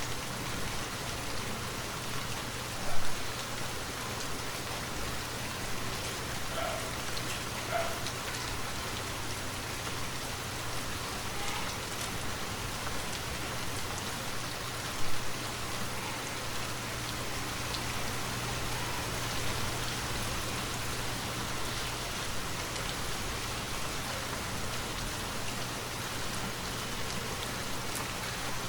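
Steady rainfall falling continuously. Two brief, louder hits stand out, about three seconds in and again about fifteen seconds in.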